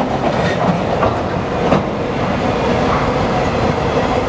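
Freight train cars rolling past at close range: a steady rumble of wheels on the rails, with a few sharp clicks as wheels cross rail joints.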